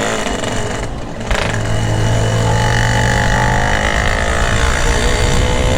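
Yamaha RX-King two-stroke single running through a GRT18 expansion-chamber exhaust. It gets louder a little over a second in, then holds a steady note.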